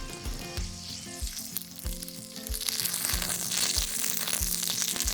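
Food frying, the sizzle swelling and growing louder about halfway through, over soft background music with a steady low beat.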